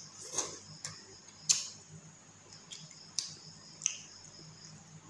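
Close-up eating sounds while chewing fish and rice: wet lip smacks and mouth clicks, about six sharp ones at uneven intervals, over a faint low hum.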